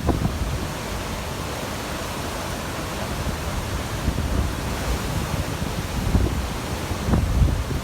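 Steady rushing noise of wind and surf, with gusts buffeting the microphone near the start and again near the end.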